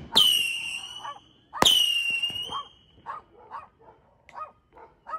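Two loud firework bangs, each trailing a high whistle that sinks slightly and fades over about a second, then a dog barking repeatedly in short barks, about two a second.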